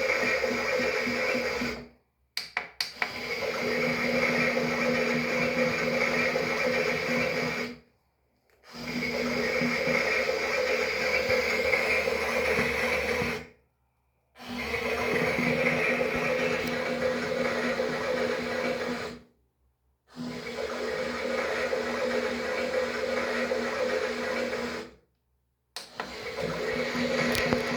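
Toy washing machine's small electric motor running the drum in stretches of about five seconds, a steady whirring hum that stops dead for under a second between each stretch, like a wash cycle's stop-and-go.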